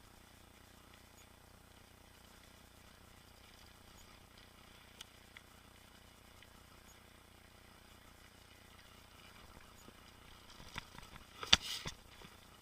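Mountain bike on a trail: a faint steady hiss with a couple of light ticks, then a burst of rattles and knocks near the end, one sharp knock the loudest.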